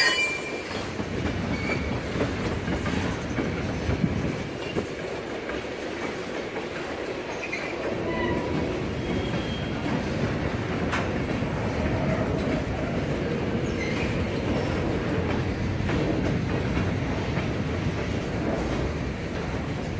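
Freight cars, tank cars and covered hoppers, rolling past steadily, wheels clicking over rail joints with a few short high wheel squeals.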